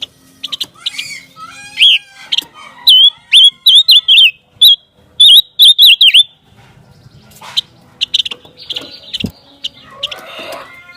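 A songbird singing: a quick series of loud, sharp whistled chirps with bending pitch in the middle, then softer, scratchier chattering notes in the last few seconds.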